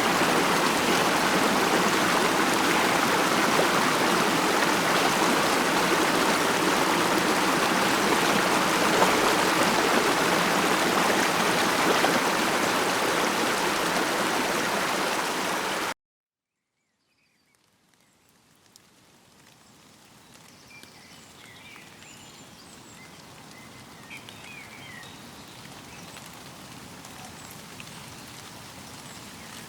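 Steady rushing of a stream, cutting off abruptly about halfway through. After a second or two of silence, a much quieter outdoor ambience fades in with a few faint chirps.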